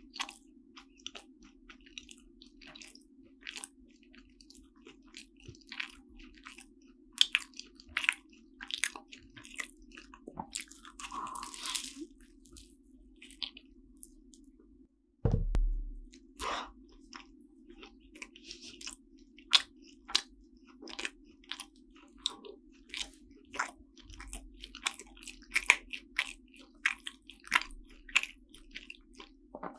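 Close-miked chewing and biting of a flaky cream-filled chocolate croissant: many short crisp crackles of the pastry layers with wet mouth sounds. A steady low hum sits underneath, and the sound cuts out briefly about halfway, then comes back with a low thump.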